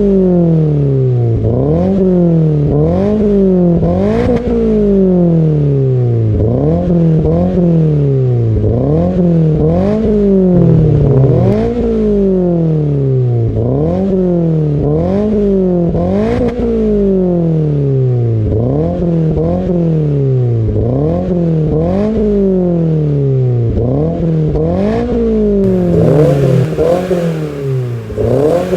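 Subaru BRZ's flat-four boxer engine revved over and over through an aftermarket catback exhaust with front pipe and dual exits. Each rev climbs quickly in pitch and falls back more slowly, about one every two seconds.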